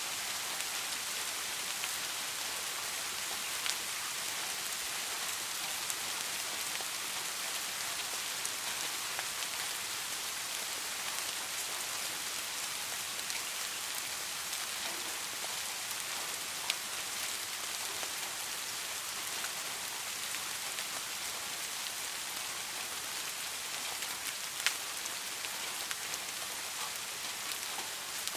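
Steady rain falling as a dense, even hiss, with occasional single drops ticking sharply close by.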